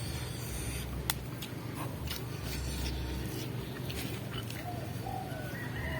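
A dove cooing a few short, arched notes near the end, over a low steady hum and a few faint clicks from chewing raw vegetables.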